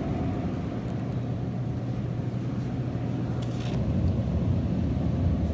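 Car driving: a steady low engine and road rumble, heard from inside the cabin, growing slightly louder about four seconds in.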